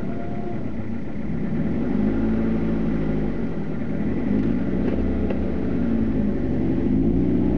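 Toyota Celica ZZT230's converted 2.0-litre 1ZZ-FE four-cylinder engine heard from inside the cabin, running at low revs as the car moves slowly. Its pitch rises and falls gently, with a small rise about two seconds in and another near the end.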